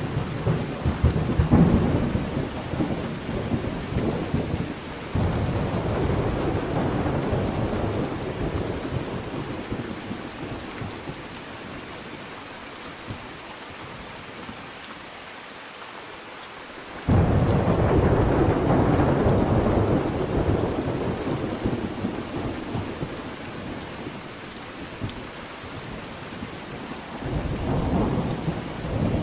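Thunderstorm with steady rain and repeated rolls of thunder. Rumbles run through the opening seconds and again from about five seconds in. A loud peal sets in suddenly about seventeen seconds in and slowly dies away, and another rumble comes near the end.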